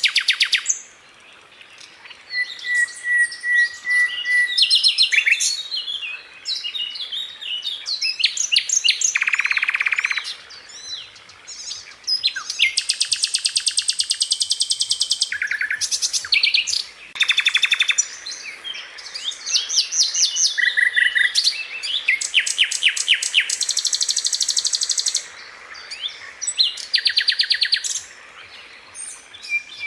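Sikatan londo flycatcher singing: a long run of rapid rattling trills and rolls of fast-repeated high notes, broken by short steady whistles and quick sharp chirps, in phrases a second or two apart.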